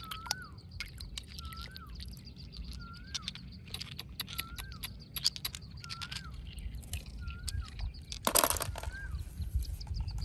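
A bird repeating one short whistled note that rises and falls, about every second and a quarter, over scattered small clicks. A brief louder burst of noise comes near the end.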